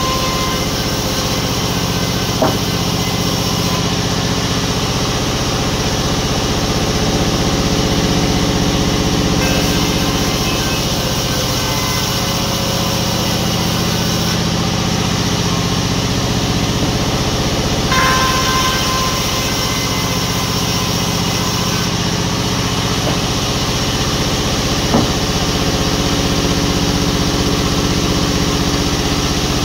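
Sawmill machinery running steadily, an engine-like hum with constant tones and a couple of sharp knocks, one about two seconds in and one near the end.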